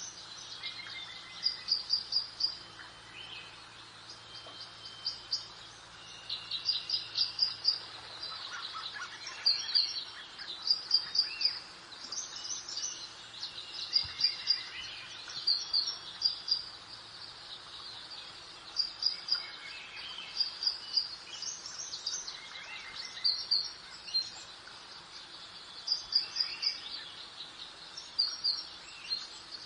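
Songbirds singing: short phrases of quick, high, repeated chirps that come again every second or two, over a soft, steady background hiss like a light breeze.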